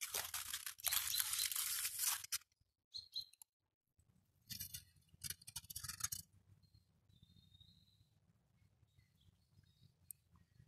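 Aluminium foil crinkling in bursts as a foil packet of baked fish is handled, with faint bird chirps near the end.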